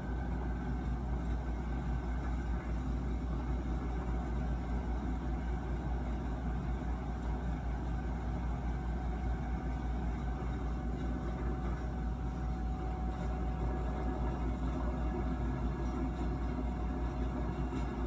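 Steady rumble of a train running along the track, the cab-ride video's own sound, heard through a screen's speaker.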